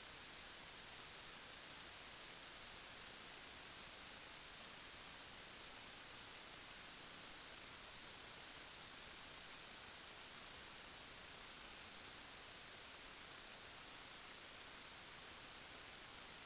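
Steady high-pitched whine of two close tones over a constant hiss.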